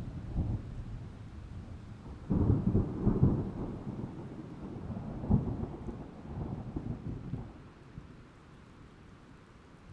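Thunder rumbling: a sudden loud clap about two seconds in, more rolls over the next few seconds, then dying away near the end.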